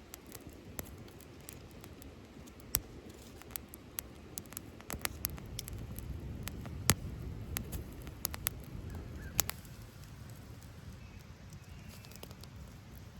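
Irregular sharp clicks and snaps, a few much louder than the rest, over a low rumble that swells around the middle and then eases.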